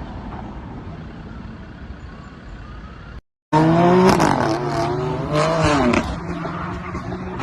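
Steady road and engine noise from a moving car. Just past the three-second mark it cuts out briefly, and then a much louder passage begins with wavering, pitch-bending tones over a steady low hum.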